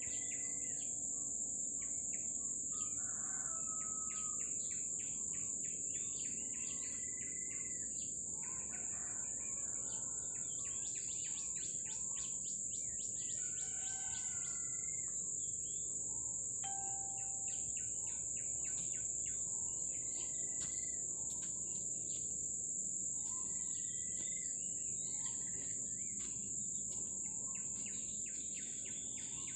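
Steady high-pitched insect drone, with many bird chirps and short whistled calls over it.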